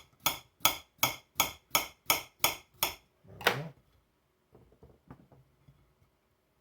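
Garlic powder being shaken from a spice shaker: about eight quick, even shakes, two or three a second. One longer, louder shake comes about three and a half seconds in, then a few faint small knocks.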